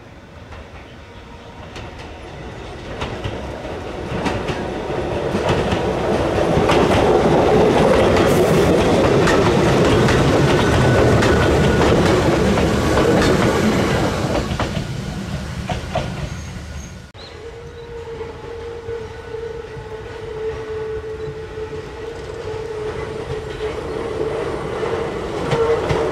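Old Hakone Tozan Railway Moha 1/Moha 2-type electric railcar passing: wheels clacking over rail joints and a running rumble, building to a peak and then fading. After an abrupt cut, a second old railcar approaches with a steady high tone over its running noise, growing louder.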